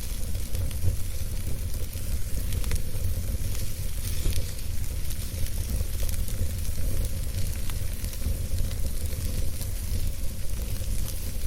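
Wood campfire burning: a steady hissing sizzle with small crackles and pops scattered throughout, over a low rumble.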